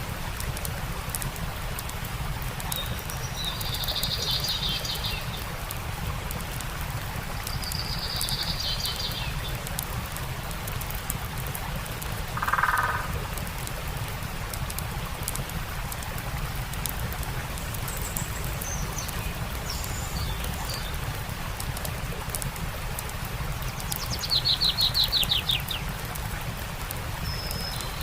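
Birds chirping a few times, with a short lower call about halfway and a fast trill near the end, over the steady rush of a stream and the light crackle of a campfire.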